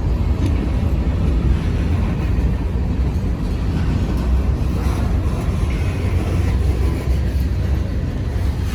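Freight train cars rolling past close by: a steady low rumble of steel wheels on the rails.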